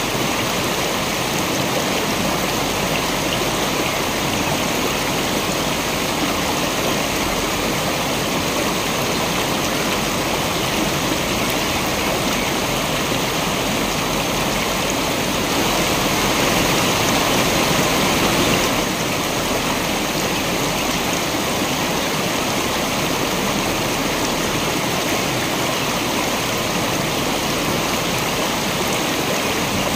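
Waterfall: water rushing steadily, swelling a little louder from about 15 to 19 seconds in.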